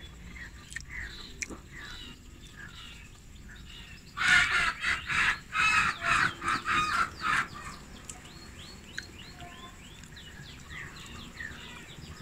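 A bird calling harshly, a run of about seven rough calls in quick succession over some three seconds. It is followed by faint, high chirping of small birds.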